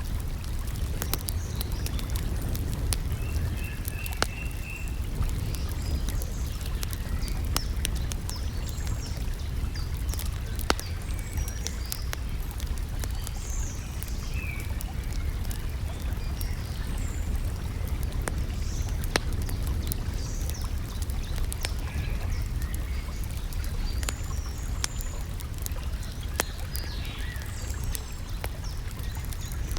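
Campfire crackling, with scattered sharp pops over a steady low rumble, and small birds chirping in short high calls throughout.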